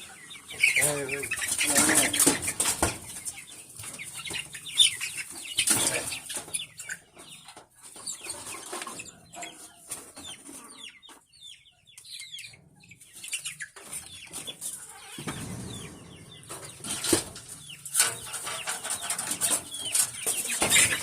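A flock of chickens clucking and calling in many short, overlapping calls, with a few brief bursts of wing flapping.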